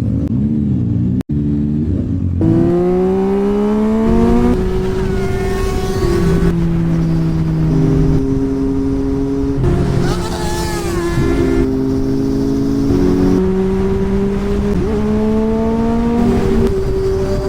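Zontes 703RR sport motorcycle's three-cylinder engine with a loud exhaust, accelerating hard through the gears. The engine note climbs, drops at each upshift and climbs again, about seven times.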